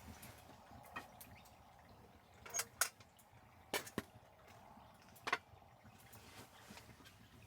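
Camp cooking gear being handled during meal preparation: about six light, sharp clicks and knocks, some in quick pairs, over a faint background hiss.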